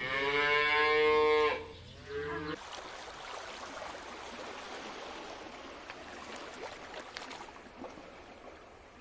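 An animal's pitched call, one long cry of about a second and a half and then a shorter one, followed by steady hissing background noise.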